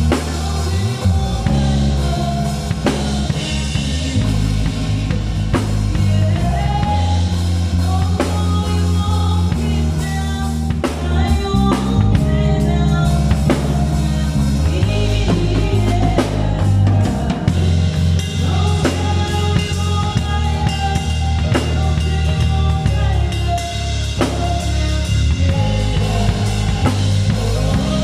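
A band playing an instrumental passage, with a full drum kit keeping a steady beat over a prominent bass line and melodic instruments.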